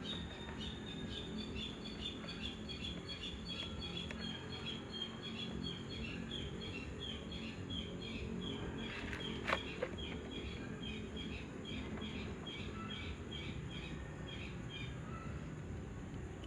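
A bird calling a long series of short high chirps, about three a second, that stops near the end, over a steady low background noise. A single sharp click comes about halfway through.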